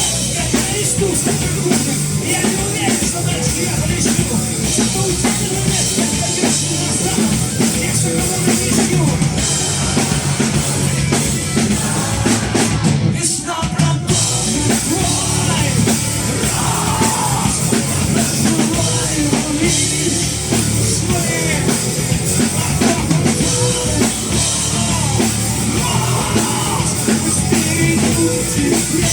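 A rock band playing live, with a drum kit and singing. There is a brief break about halfway through.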